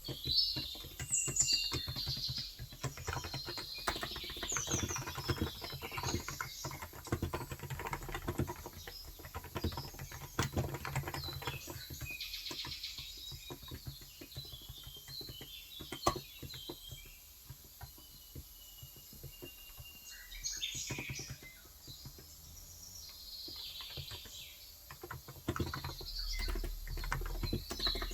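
Typing on a Cox Endeavor electrostatic capacitive (contactless) tenkeyless keyboard with 35 g switches: quick runs of keystrokes that thin out about halfway through and pick up again near the end. Birds chirp and tweet in the background.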